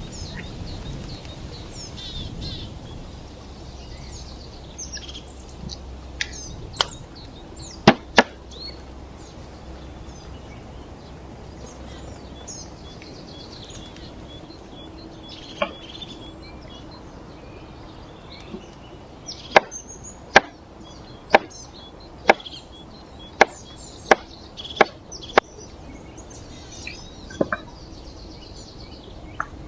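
Sharp chopping strikes of a blade on wood. There are a few scattered strikes, then in the second half a steady run of about one a second, with two more near the end.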